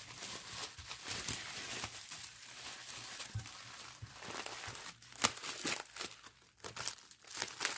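Packaging being handled: crinkling and rustling with scattered small clicks and knocks, and one sharper click about five seconds in.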